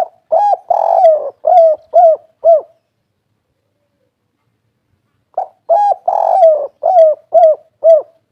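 Spotted dove (tekukur/derkuku) cooing in two song phrases, each a short note and a long drawn coo followed by three short falling coos, the 'kuk 3' song type.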